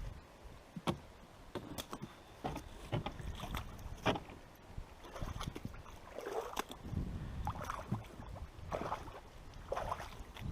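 A small boat being paddled: splashy paddle strokes in the water about once a second, mixed with light knocks of the paddle against the hull.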